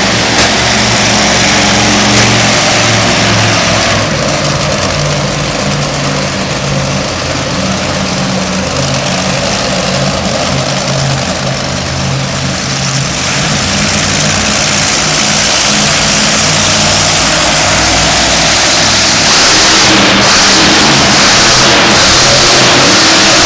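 A car engine held at high revs and revved up and down while the car spins donuts, with the hiss of spinning tyres growing louder near the end. The overall sound is loud.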